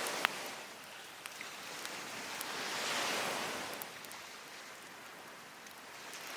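Waves washing onto a beach in slow surges, one swelling and falling away about halfway through. Over the surf, a wood fire gives a few sharp crackles and pops.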